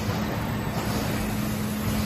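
Automatic filter packaging line machinery running: a steady mechanical noise with a constant low hum.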